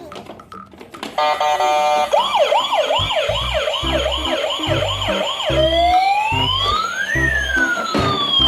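Electronic emergency-vehicle siren starting about a second in: a fast yelp of about three rises a second, then a slower rising and falling wail. A rhythmic low thumping runs under it.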